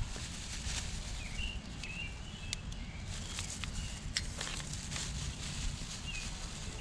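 Outdoor ambience: birds chirping in short calls now and then over a steady low rumble, with a few light clicks.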